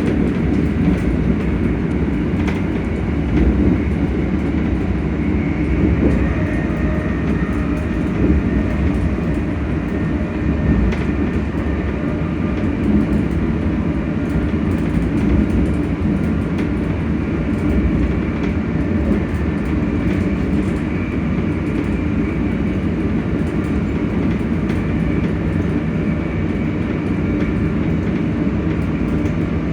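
ScotRail Class 385 electric multiple unit running, heard from on board: a steady rumble of wheels on track with the faint hum of its electric traction motors.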